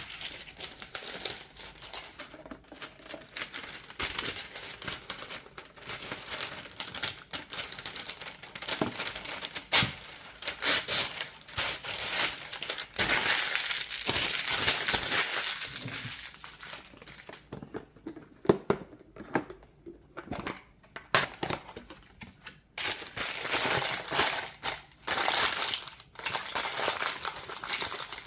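Crinkling and rustling of kitchen wrapping being handled, with scattered small clicks and knocks, the loudest stretches in the middle and near the end.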